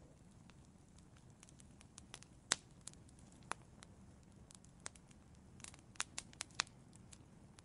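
Wood burning in an outdoor fireplace, crackling: scattered sharp pops over a low steady hiss, the loudest about two and a half seconds in and a quick run of pops around six seconds in.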